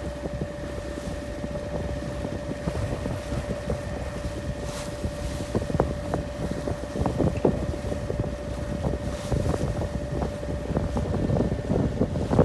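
Boat engine running with a steady hum, with wind buffeting the microphone.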